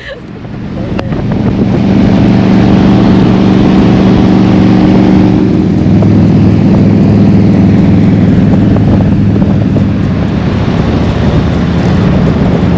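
Motorcycle engine running at road speed with rushing wind noise, fading in over the first two seconds; the engine note changes about six seconds in.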